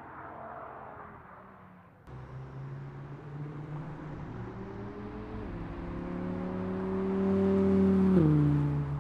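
Audi R8 Spyder's V10 engine, first fading as the car drives off. Then, after a cut, it runs under acceleration, its pitch climbing steadily and getting louder as the car approaches. The pitch drops suddenly near the end.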